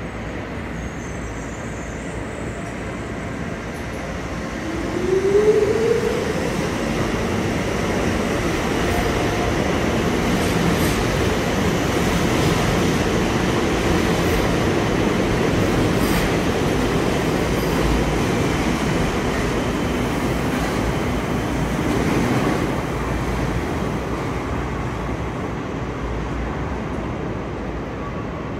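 Docklands Light Railway train running along an underground station platform. A short rising whine about five seconds in is the loudest moment. A steady rumble of wheels and motors follows and fades near the end as the train moves away.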